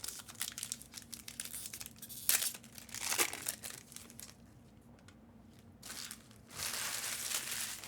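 Plastic trading-card packaging crinkling, with a long tearing rip near the end, as card boxes are unwrapped and packs handled. The crackling comes in irregular bursts and goes quiet midway.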